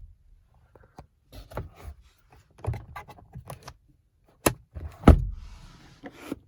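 Glove box lid in an SUV's dashboard being handled, making a run of plastic clicks and knocks, with a sharp knock about four and a half seconds in and a heavier thud just after five seconds as it is shut.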